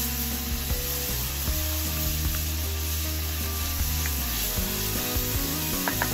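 Chopped onion, tomato and green capsicum sizzling in oil in a frying pan while a wooden spatula stirs them, with a few light clicks near the end. Background music plays steady low notes underneath.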